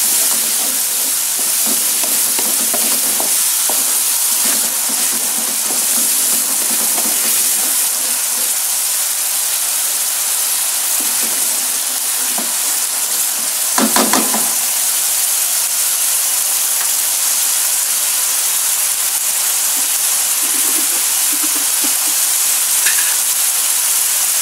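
Blended chili balado paste, thinned with a little water, sizzling in a nonstick wok with a steady hiss, while a plastic spatula stirs and scrapes through it. A single louder knock comes about fourteen seconds in.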